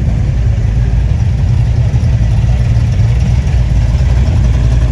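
Car engine running close by, a steady low rumble.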